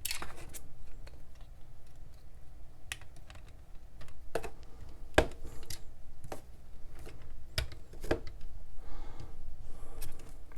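Small plastic Lego pieces clicking and tapping as an assembled model is handled and parts are pressed into place, with irregular sharp clicks spaced about a second or so apart.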